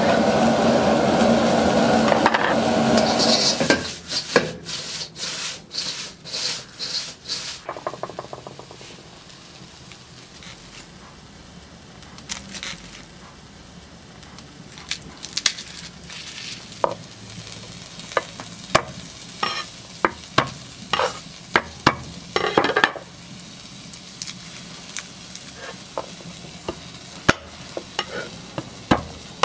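Sliced onions sizzling loudly in a hot steel wok, then stirred and scraped with quick rhythmic strokes for a few seconds. After a quieter stretch, a kitchen knife knocks and chops garlic cloves on a wooden board in sharp, scattered taps.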